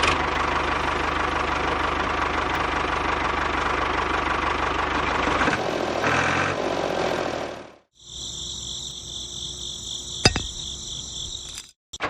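Small electric motor and gearing of a DIY miniature toy tractor running with a fast, even buzz. About eight seconds in it cuts off abruptly and is replaced by a quieter high-pitched, evenly pulsing whine, with a single click near the end.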